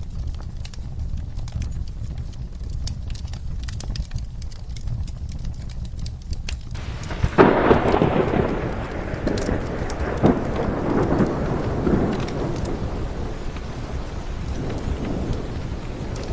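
Steady rain with the crackle of a wood fire. About seven seconds in, a clap of thunder breaks suddenly and rumbles away over several seconds.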